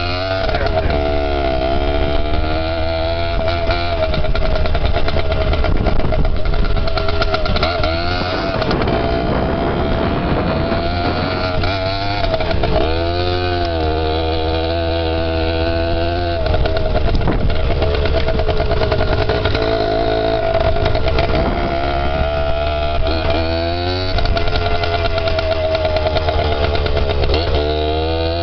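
Dirt bike engine running while riding, its pitch rising and falling again and again as the throttle is opened and closed.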